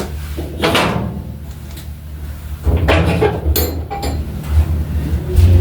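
Someone rummaging through kitchen items: a few knocks and rustling bursts and a brief clink, like containers and a drawer or cupboard being handled, over a steady low hum.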